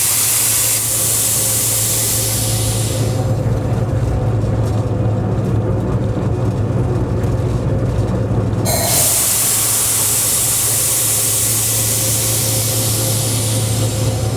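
Steady low drone of a train locomotive heard from inside the cab, with two long bursts of hissing air, the first fading about three seconds in and the second starting about nine seconds in.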